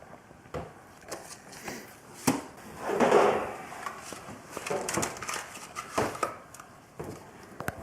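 Scattered clicks and knocks of hands handling things, with one brief crinkling rustle about three seconds in.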